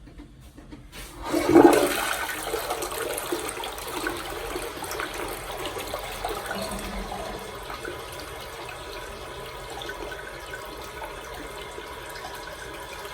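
Toto CST 920 tornado-flush toilet flushing: a sudden loud rush of water about a second in, easing gradually into a steady flow.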